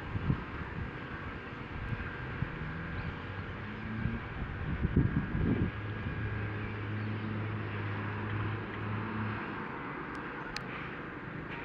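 Wind gusting against the microphone in low rumbling bursts over a steady outdoor hiss. A low, steady hum runs underneath through the middle and stops about two seconds before the end.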